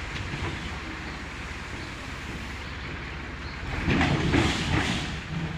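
A vehicle engine running steadily at a low rumble, with a louder burst of noise about four seconds in lasting around a second.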